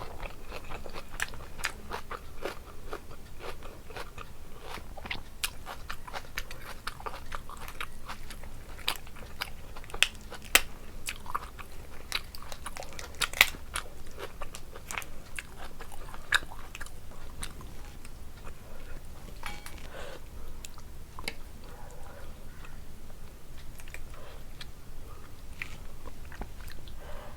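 A person chewing and crunching food close to the microphone, with dense crisp crunches and a few louder bites in the middle, easing into quieter chewing in the later part.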